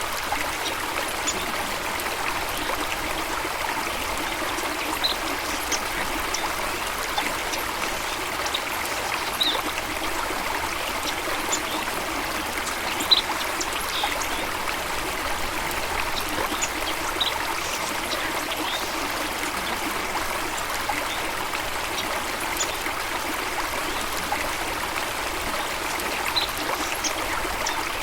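Running water flowing and trickling steadily, with scattered brief high-pitched notes over it and one short louder blip about halfway through.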